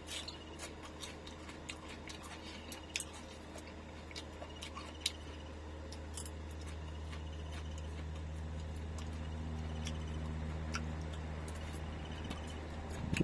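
Light, scattered clicks of chopsticks and a spoon against a bowl and dish while eating, over a steady low hum that swells a little in the middle.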